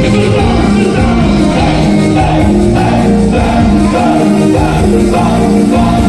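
Loud band music with singing over a steady beat and a repeating bass line.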